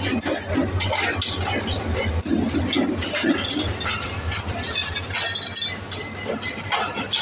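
Passenger coaches of an arriving train rolling slowly past, wheels, couplings and running gear clanking and clinking irregularly over the rails, over a steady low hum.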